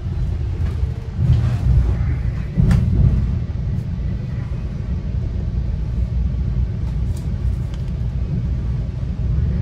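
Low, steady rumble of a Metra commuter train running, heard from inside the passenger car, with a few sharp clicks, the strongest about two and a half seconds in.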